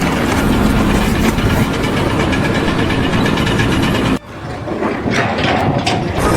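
Steady engine noise of machinery running, cut off abruptly about four seconds in and followed by a quieter, different mix of noise.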